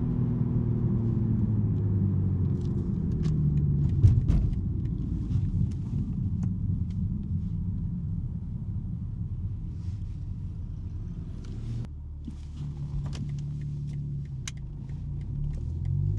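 BMW M3 G80's twin-turbo straight-six running under way with a low exhaust drone through a non-resonated J-pipe. There is a sharp knock about four seconds in. Near twelve seconds in, the engine note drops away and then comes back steady at a different pitch.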